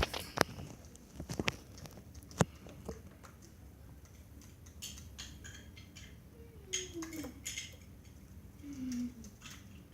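Scattered light taps and clicks as parrots move about, with a short soft falling call about two-thirds of the way through and another near the end.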